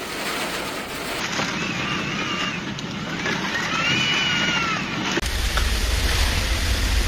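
Storm wind and rain making a steady rushing noise, with two drawn-out rising-and-falling tones in the middle. From about five seconds in, heavy wind buffets the microphone with a deep rumble.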